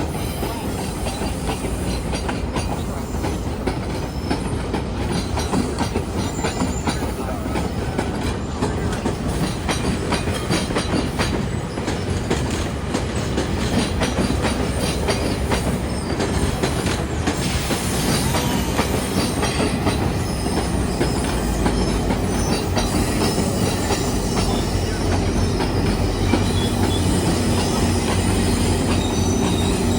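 GO Transit diesel commuter train running on the rails: steel wheels click over the rail joints and squeal. In the second half a steady low drone from the diesel locomotive comes up and holds.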